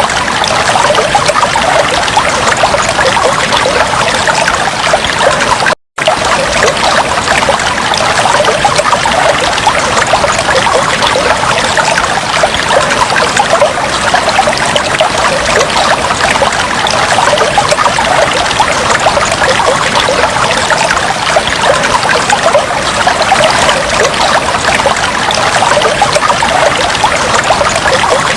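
Fish tank water trickling steadily, with a momentary cut to silence about six seconds in.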